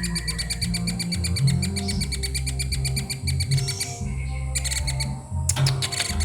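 Young woodpecker calling in a rapid, evenly repeated chatter of about ten notes a second, with short breaks a little after four seconds in, over background music with a steady bass line.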